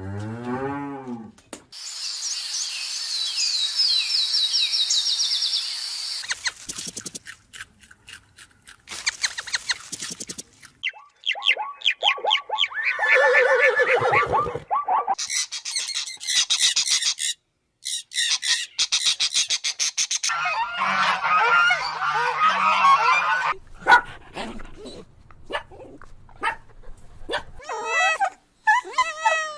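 A string of different animal calls in quick succession, each lasting a few seconds, with honking goose-like calls in the middle.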